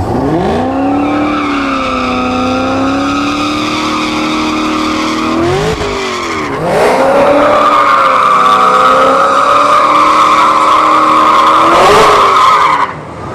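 Modified Cadillac CTS-V V8 doing a burnout: the engine is revved and held at high revs with the rear tyres squealing, in two long pulls, the second louder, cutting off shortly before the end.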